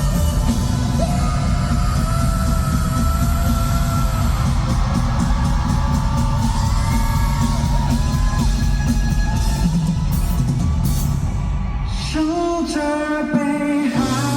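Live pop-rock band playing with a singing voice, as heard from the audience. About twelve seconds in, the drums and bass thin out to a sparer passage with a held sung note.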